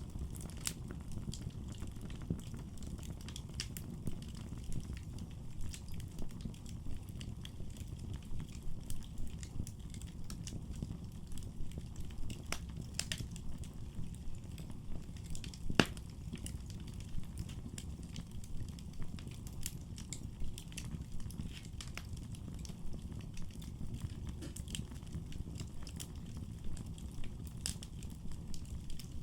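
Wood fire burning in a fireplace: a steady low rumble of flames under frequent irregular crackles and pops, with one sharp, louder pop about midway.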